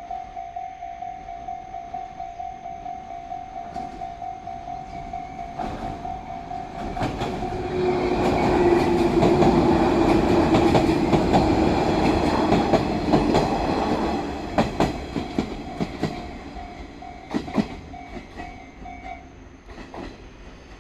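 Japanese level-crossing bell ringing a steady, rhythmic ding while a JR 115-series electric train passes over the crossing. The train gets loud in the middle with wheels clattering over the rail joints, then a few last clacks trail off. The crossing bell stops near the end.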